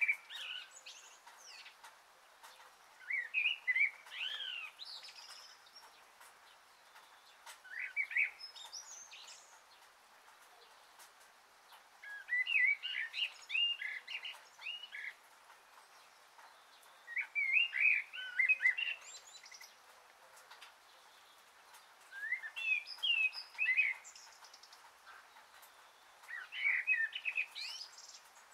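A bird singing short warbling phrases, one about every four to five seconds, over a faint steady hiss.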